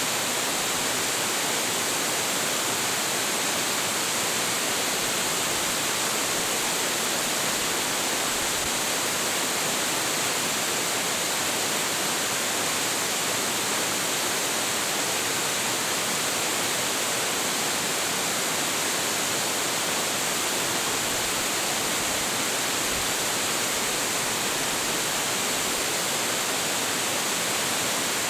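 Hiji Ōtaki, a large waterfall with a heavy flow, pouring steadily: an even rushing roar with a strong hiss on top, unchanging throughout.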